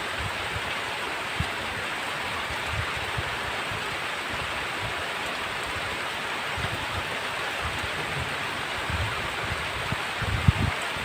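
Heavy rain falling steadily in a dense, even hiss, with scattered short low thuds, the loudest near the end.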